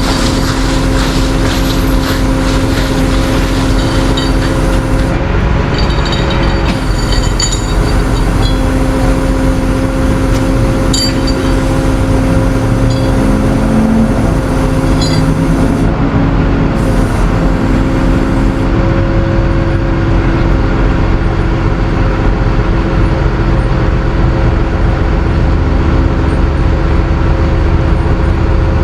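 A tow truck's engine runs steadily. A few light metallic clinks come through now and then.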